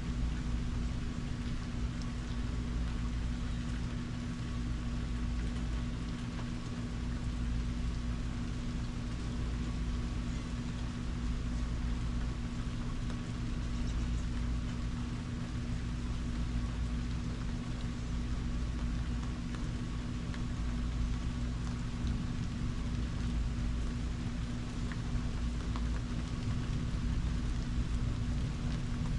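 Steady rain falling, with a constant low hum beneath it.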